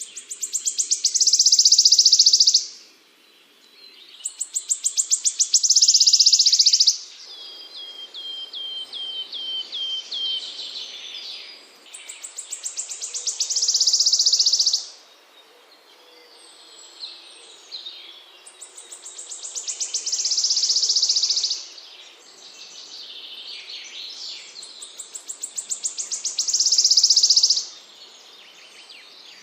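A small songbird singing high-pitched, repeated phrases. Each phrase is a series of ticks that speeds up into a fast buzzing trill, coming about every six to seven seconds. Between the first two phrases is a quicker run of short down-slurred notes.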